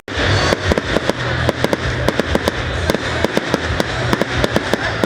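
Aerial fireworks going off in a rapid, unbroken string of sharp bangs and crackles, several a second, over a steady low rumble.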